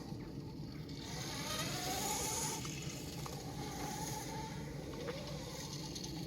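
Homemade 72-volt, 3000-watt electric dirt bike riding, its motor giving a faint whine that rises in pitch about a second and a half in and again briefly later, over steady tyre and wind noise.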